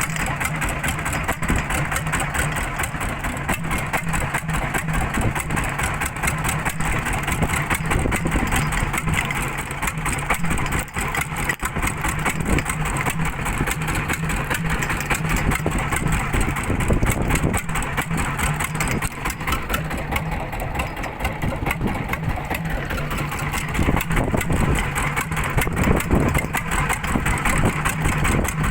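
A small fishing boat's engine running steadily at sea, a constant low hum mixed with noise.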